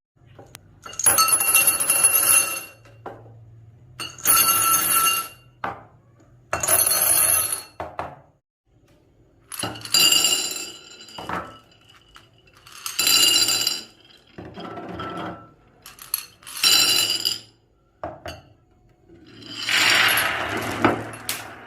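Marbles running down a HABA wooden marble-run slope in repeated bursts, each a second or two of rolling and clattering with a bright ringing clink, about eight runs with short quiet gaps between.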